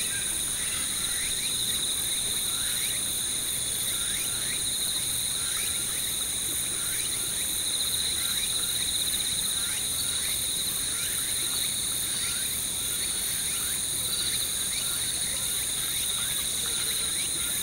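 Autumn crickets chirring in a steady, high-pitched chorus, with short, quick bird call notes repeating throughout.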